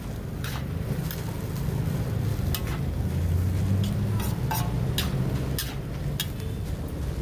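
A large batch of seafood fried rice being stir-fried in a wok. A metal spatula scrapes and knocks against the pan at irregular intervals, over a steady low rumble and frying hiss.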